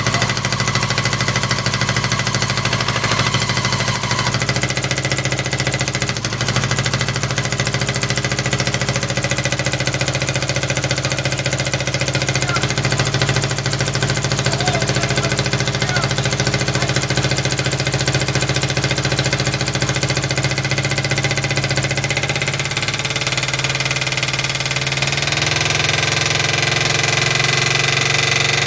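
Vincent motorcycle engine running steadily after being started, with an uneven, pulsing beat. Its speed picks up a little in the last few seconds.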